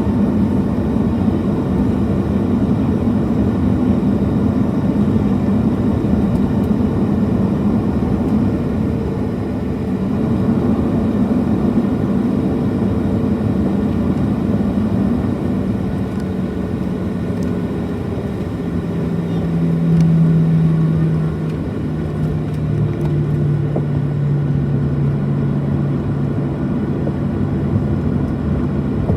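Cabin noise inside a Boeing 737-700 with its CFM56-7B engines running: a steady hum with a droning tone that drops a little in pitch about two-thirds of the way through.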